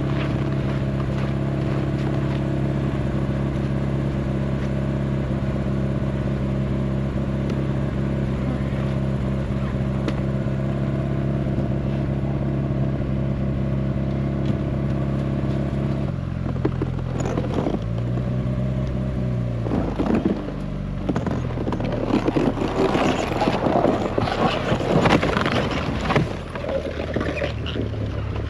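A vehicle engine idling steadily, then changing pitch about two-thirds of the way in, followed by loud, irregular scraping and cracking near the end.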